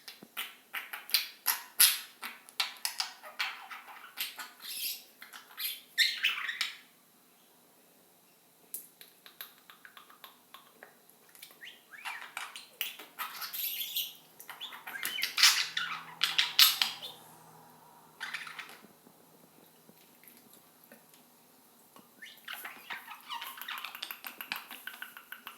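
Budgerigars chattering at a mirror in quick runs of chirps, clicks and squawks. The chatter pauses briefly about seven seconds in and picks up again near the end.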